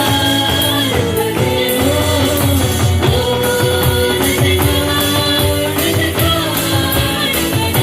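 Live worship band music with a steady beat, tambourine prominent over drums and sustained melody instruments.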